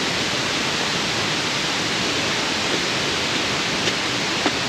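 Waterfall water rushing in a steady, even hiss, with two faint clicks near the end.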